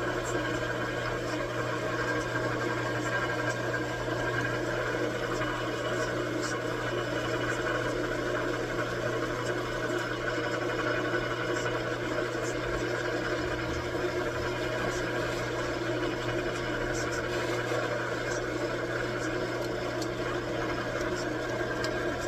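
A machine-shop machine tool running with a steady hum, its motor pitch unchanging throughout, with a few faint ticks.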